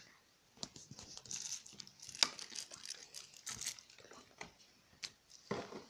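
Packaging being handled as a diecast model airliner is unwrapped: irregular crinkling, rustling and tearing, with sharp clicks throughout.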